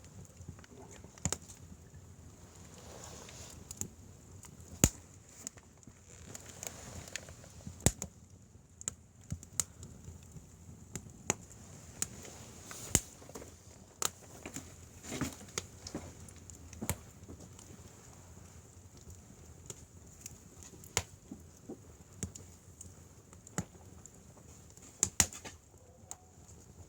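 Firewood burning, crackling with irregular sharp pops every second or two, a few much louder than the rest, over a faint steady hiss.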